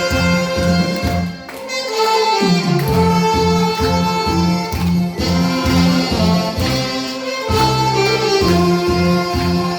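Trot song played live on saxophone over a backing track with a steady beat, the sax holding long melody notes.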